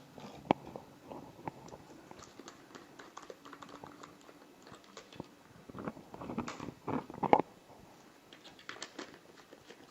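Faint clicks and small knocks of objects being handled on a table, with a few louder short bursts of noise about six to seven seconds in.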